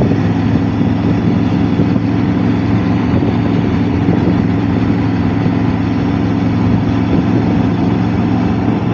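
Motorcycle engine running at a steady pitch while riding, with road and wind noise.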